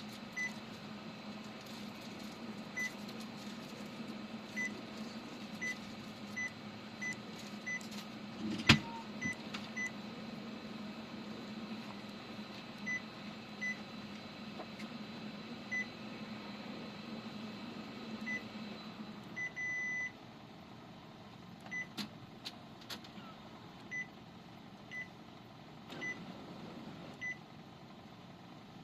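An electrical appliance humming steadily, with short high beeps at uneven intervals and a sharp click about nine seconds in. After a longer beep about twenty seconds in the hum stops, and the short beeps carry on.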